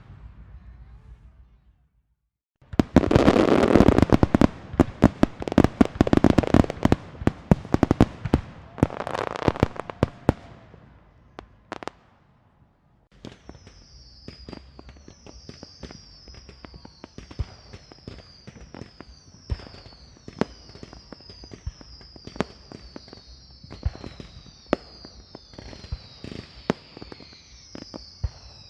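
Fireworks: a string of firecrackers going off in a rapid, dense run of bangs and crackles for about seven seconds. After a short pause, a run of short, high, falling whistles repeats over and over, mixed with scattered pops and crackles.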